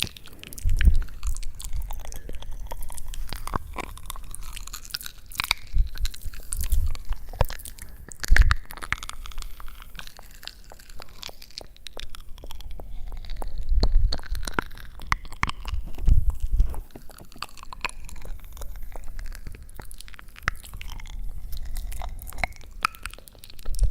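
Close-miked ASMR crunching: dense, irregular crisp clicks and crackles with soft low thumps every second or two, like chewing or crushing something crunchy right at the microphone.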